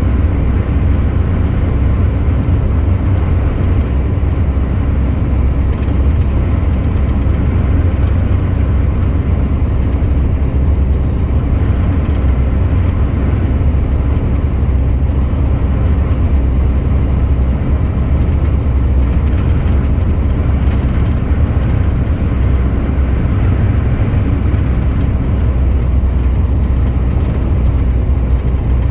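Truck driving at a steady speed: a steady, loud, low engine and road rumble with no change through the stretch.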